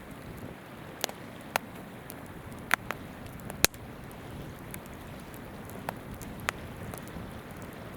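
Wood campfire crackling, with a handful of sharp pops and snaps (the loudest about three and a half seconds in), over the steady rush of a flowing river.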